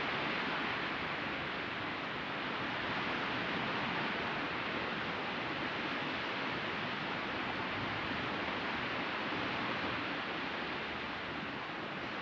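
Steady wash of ocean surf, with the level rising and falling gently as waves break.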